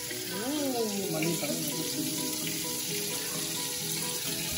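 Pork belly frying in oil in a covered stainless-steel Saladmaster skillet, sizzling with a steady hiss.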